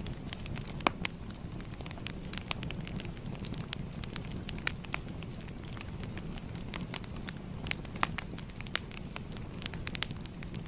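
Fire crackling: a steady low rumble of flames with many irregular sharp pops and snaps, a few of them louder than the rest.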